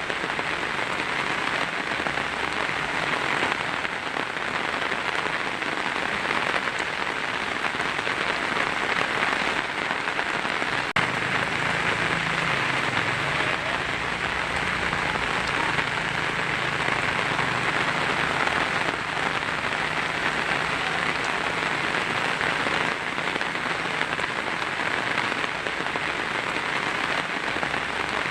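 Heavy rain drumming steadily on a tin roof, a dense even patter with no break, with one brief click about eleven seconds in.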